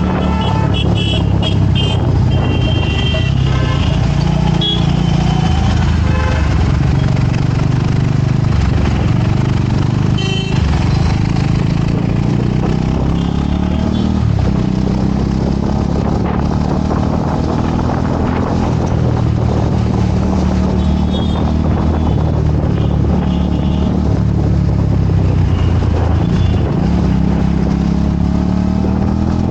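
Vehicle engine and road noise of a ride through city traffic, the engine note rising and falling with speed, with a few short high-pitched beeps near the start and again about ten seconds in.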